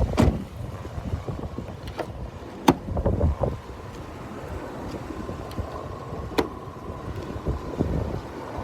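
A 2017 Jeep Wrangler's 3.6-litre V6 idling quietly under a low rumble of noise, with a few sharp clicks and knocks, the loudest about two and a half seconds in. A faint steady high tone comes in about halfway through.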